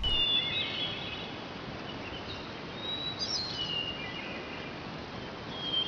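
Birds chirping, with short whistled calls several times, over a steady outdoor hiss.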